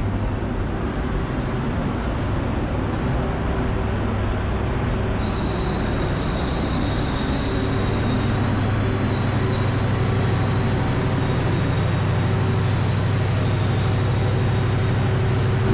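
Passenger train standing at a station platform: a steady low diesel hum that swells slightly partway through. A thin high whine joins about five seconds in and holds.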